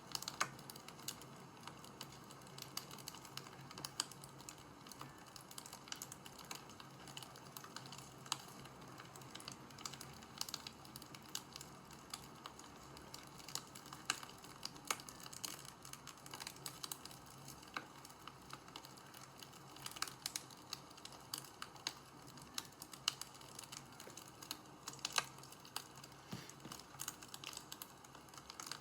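Wood fire crackling: a steady run of irregular sharp pops and snaps over a faint low hum.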